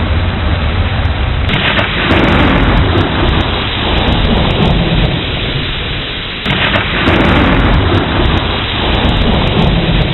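Thunderstorm: steady rain with rolling thunder rumbling low underneath, swelling suddenly twice, about a second and a half in and again a little past the middle.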